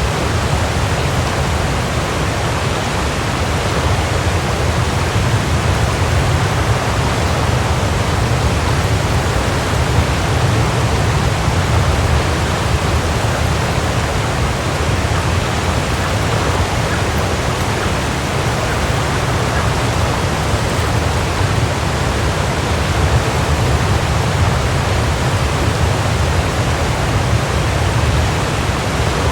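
Waterfall rushing: a steady, dense roar of falling water with a strong low rumble.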